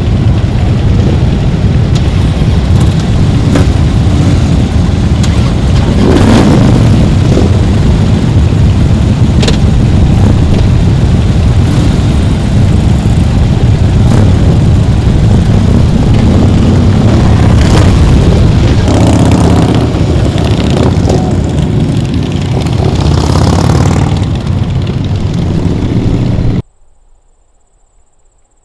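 Motorcycle engines running loud as a group of motorcycles rides, with a heavy steady rumble and a few louder swells as bikes pass close. The sound cuts off suddenly near the end, leaving only a faint high steady tone.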